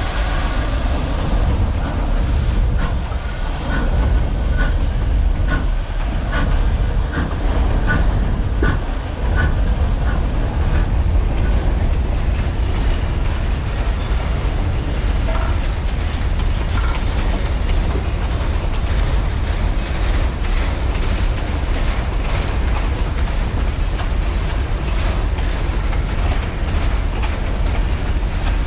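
Railway cars rolling past on the track: a steady rumble with wheels clicking over the rail joints. There are a few short high squeals in the first half, and the clatter grows fuller from about halfway.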